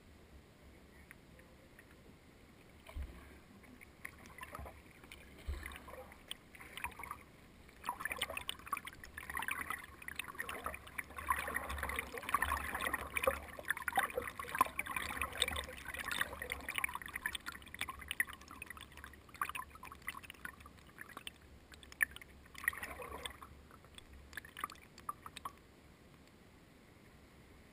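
Water splashing and sloshing around a small boat, irregular and busiest in the middle, then dying away near the end.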